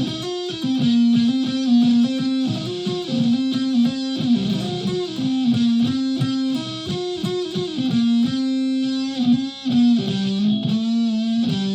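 Solid-body electric ukulele played through a clone of the Keeley Rotten Apple fuzz, a Big Muff-style circuit built on hex inverters instead of transistors, giving a thick, sustaining distorted tone. A melody of single plucked notes runs throughout, with the pitch moving up and down.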